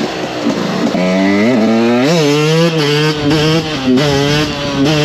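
KTM SX 125 two-stroke dirt bike engine revving hard. Its pitch sweeps up sharply about a second in and again around two seconds, then it runs at steadier pitches that step up and down.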